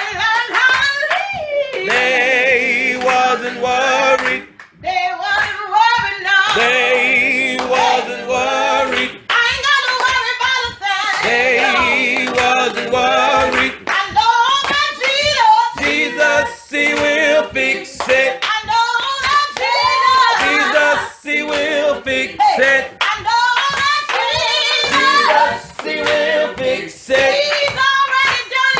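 Gospel singing with a wavering vibrato voice and handclapping.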